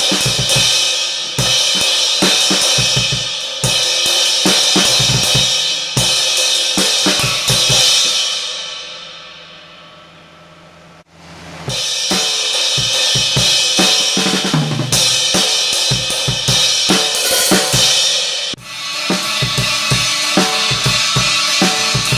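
Loud rock drumming, a full drum kit with heavy crash and hi-hat cymbals, kick and snare. About eight seconds in it dies away over a few seconds, then starts again suddenly near the twelve-second mark.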